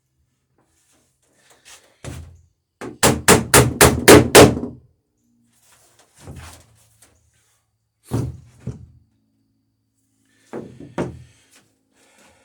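Hammer setting rivets in the lapped planking of a wooden dory: a quick run of about seven loud blows, then a few scattered single and paired taps.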